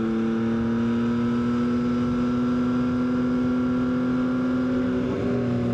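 Yamaha XSR900's inline three-cylinder engine running at a steady speed while riding, with a steady engine tone that shifts slightly in pitch near the end.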